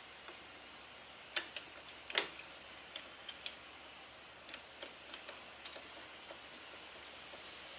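Irregular sharp clicks and taps of hand tools and metal parts being handled during motorcycle reassembly, the loudest about two seconds in, thinning out toward the end, over a low hiss.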